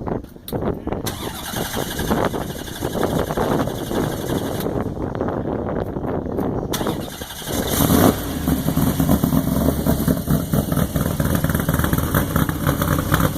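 A show car's engine fires up about seven and a half seconds in, with a brief rev, then runs at a steady, loud idle.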